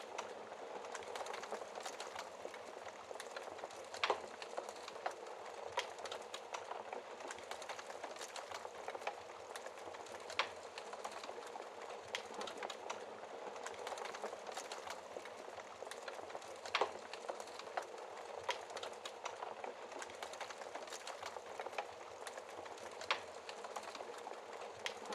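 Wood fire burning in a fireplace: a steady crackle with frequent small snaps and a few louder pops.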